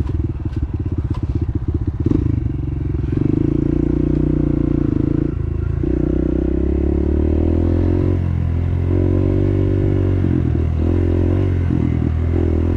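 Dirt bike engine running under way, its note uneven and pulsing in the first two seconds, then steadier, dipping briefly several times as the throttle is eased and picked back up. A few sharp clicks and rattles near the start.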